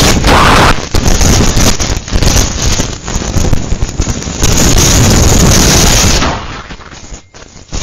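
Hurricane-force wind blasting the microphone, loud and distorted with crackling gusts, easing off briefly about six seconds in before picking up again.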